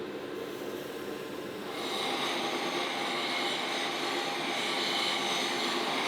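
A power tool running steadily; a little under two seconds in it grows louder and harsher.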